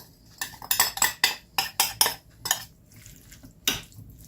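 A utensil clinking and knocking against a bowl while raw chicken pieces are stirred through a spice-and-oil rub: a quick run of sharp clicks, then a pause and one louder knock near the end.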